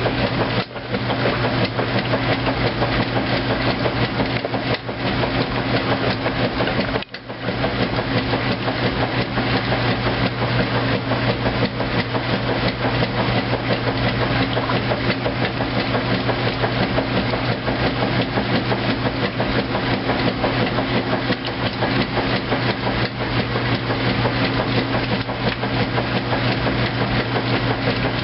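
2008 Kenmore washing machine running on its heavy duty cycle: a steady motor hum under a dense, rapid clatter, dropping off briefly about a second in and again about seven seconds in.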